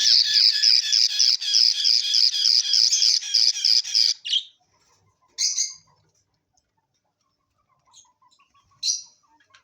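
Budgerigars calling: a loud, rapid run of harsh repeated calls, about five a second, that stops about four seconds in. After it come a couple of single squawks and faint soft chirps.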